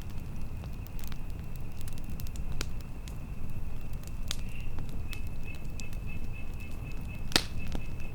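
Campfire crackling, with scattered sharp pops (the loudest about seven seconds in) over a steady low rumble of flames and wind. A thin, steady high tone runs underneath.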